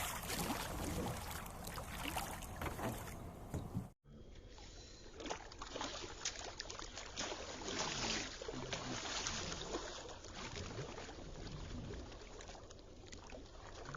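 Water sloshing and splashing against a small river boat, with scattered knocks and clunks; the sound breaks off abruptly about four seconds in and resumes.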